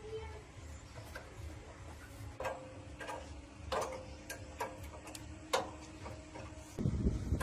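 Irregular light clicks and taps, several with a brief metallic ring. A louder low rumble comes in near the end.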